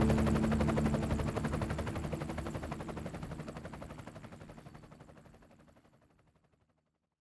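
Helicopter rotor chop, a rapid even pulsing, fading steadily away to silence about six seconds in.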